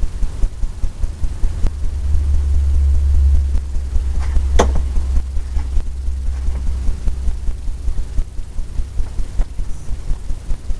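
Oil-paint brush scrubbing back and forth on a stretched canvas, a rapid run of low thuds about four a second, with one sharp click about halfway through.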